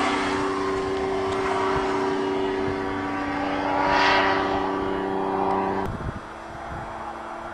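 Light airplane's engine droning steadily as it flies away after takeoff, swelling briefly about four seconds in. Just before six seconds the drone cuts off with a knock, and a fainter steady engine drone goes on.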